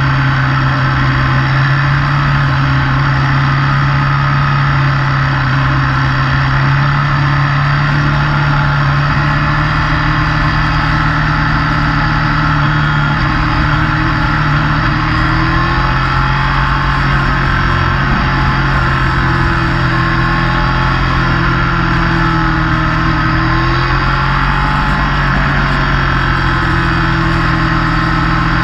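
Motorcycle engine running steadily at cruising speed, its pitch drifting up and down a little as the throttle changes, over a constant rush of road and wind noise.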